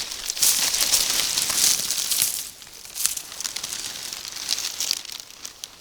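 Crinkling and rustling with many small crackles, loud for the first two and a half seconds, then fainter scattered crackles.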